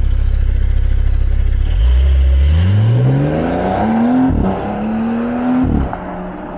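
Porsche 911 flat-six engine idling, then revving up as the car pulls away. About four seconds in the pitch drops at an upshift, climbs again, and falls away near the end.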